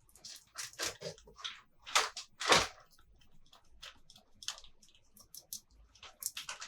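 Small plastic toy pieces being handled and set down: a run of irregular light clicks, taps and rustles, with the loudest knock about two and a half seconds in.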